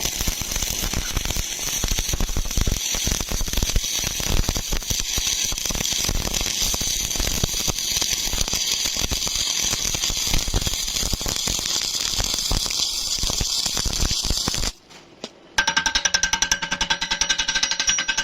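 Stick welding arc crackling and sizzling steadily for about fifteen seconds, then cutting off suddenly as the arc is broken. A fast, even rattle follows near the end.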